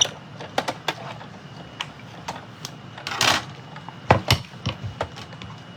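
Big Shot die-cutting machine being hand-cranked with a die and cardstock through its plates: irregular clicks and knocks, with a short hissing scrape about three seconds in and two stronger knocks just after.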